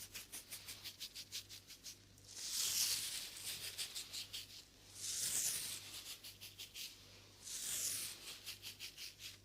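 ASMR trigger sounds close to the microphone: a fast, even scratching or brushing, about seven or eight strokes a second, with three louder swells of hiss.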